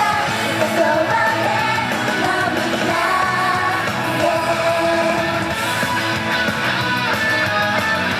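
A female idol group singing a fast pop-rock song live, over amplified band music with electric guitar.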